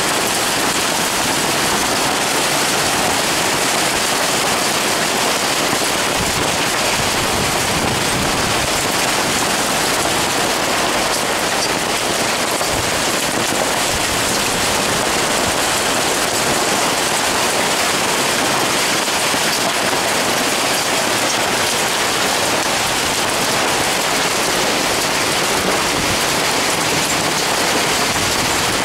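Heavy storm rain mixed with hail pelting down on a pop-up tent awning. It makes a loud, steady hiss and drumming that does not let up.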